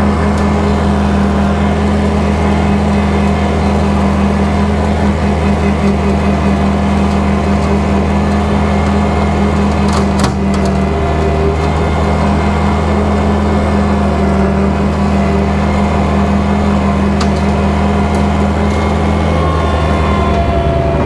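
Kubota tractor's diesel engine running steadily while bush hogging, with the rotary cutter engaged. A couple of sharp clicks come about halfway through.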